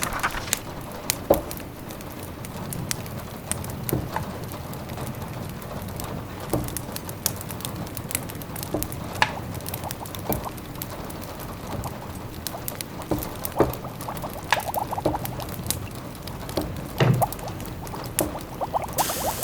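Wood fire crackling in a fireplace: irregular sharp pops and snaps over a steady soft hiss, with a quick run of small crackles about three-quarters of the way through.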